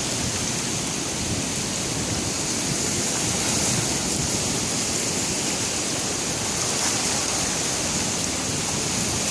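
Sea surf breaking on the shore, a steady unbroken wash of noise.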